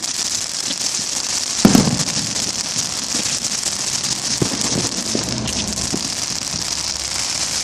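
Fireworks crackling and hissing without a break, a dense spray of tiny pops, with one loud bang a little under two seconds in and a few smaller pops later.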